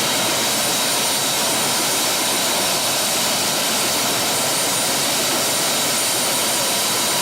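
Helicopter turbine engine running steadily: a loud, even rush with a faint high whine held on one pitch.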